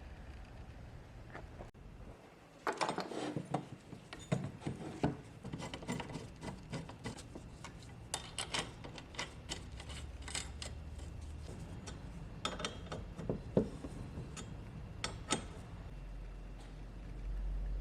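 Irregular series of sharp clicks and knocks, like small hard parts being handled and fitted, starting a few seconds in and stopping shortly before the end, over a low steady hum.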